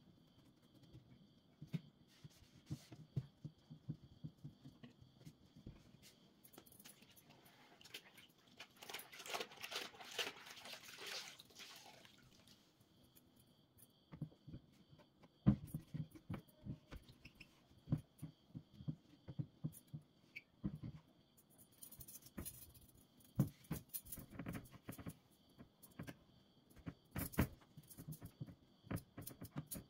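Light clicks and knocks of household items being handled and set down, scattered irregularly, with a few seconds of steadier noise about eight seconds in.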